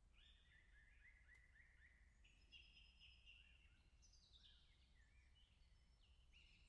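Faint birdsong: quick series of short chirps and whistled phrases, some stepping down in pitch, over a low steady rumble.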